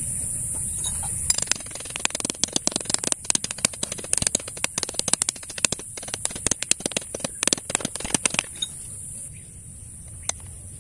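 Dense, irregular crackling and clicking lasting about seven seconds, then a single click near the end, over a steady high-pitched hiss.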